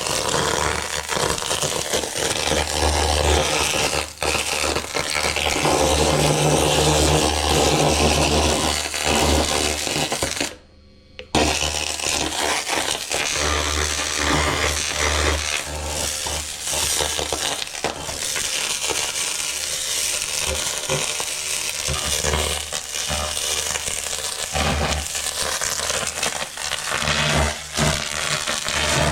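Continuous-wave laser cleaning head working over a truck chassis: a dense crackling hiss over a steady low machine hum. It cuts out briefly about eleven seconds in.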